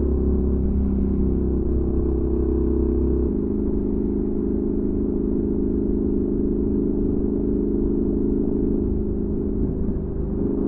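Honda NC700X parallel-twin engine running through a Danmoto XG-1 aftermarket exhaust, holding a steady note while riding. The tone shifts about three seconds in and dips briefly near the end.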